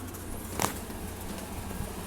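Window air conditioner running with a steady low hum, and one short sharp click about half a second in.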